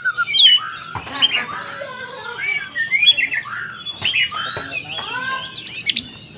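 White-rumped shama (murai batu) singing in full voice: a fast, unbroken run of varied whistles, chirps and pitch glides, with a few sharp rising notes near the end.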